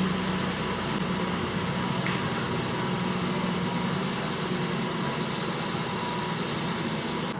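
Steady background noise: a constant hiss with a low, even hum and no distinct events.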